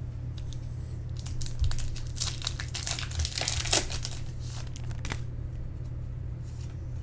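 Foil wrapper of a trading card pack being torn open and crinkled: a spell of dense crackling about a second in, busiest in the middle and dying away before the end, over a steady low electrical hum.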